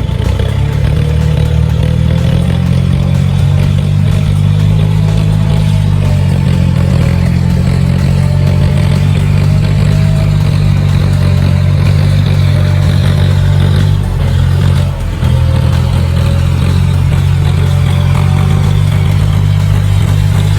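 Tractor engine running steadily with a low, even drone. The level drops briefly about 14 seconds in, then picks up again.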